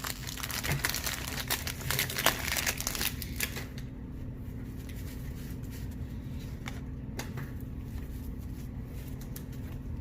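A 1991 Topps wax-paper card pack being torn open and its wrapper crinkled for about three and a half seconds, then quieter handling of the cards with a few faint ticks.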